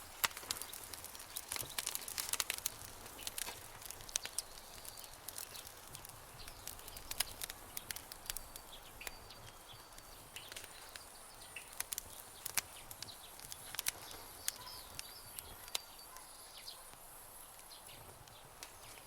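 Campfire crackling, with scattered sharp pops that come thickest in the first few seconds and then thin out. Faint short bird chirps sound in the background over the second half.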